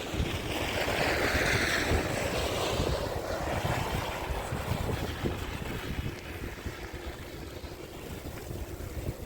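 Wind buffeting the microphone in a blowing snowstorm, a steady low rumble, with a broad rushing hiss that swells over the first few seconds and then fades back.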